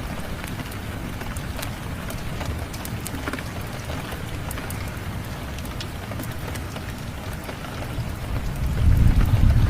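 Steady rain falling, mixed with scattered sharp crackles from a wood fire in a fireplace. A low rumble swells near the end.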